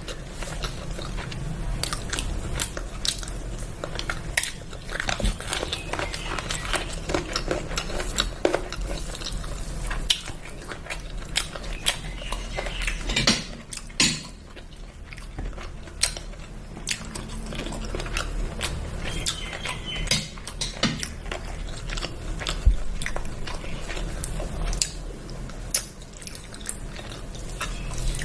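A person eating: chewing and biting with many irregular small clicks and clinks of dishes, over a steady low hum.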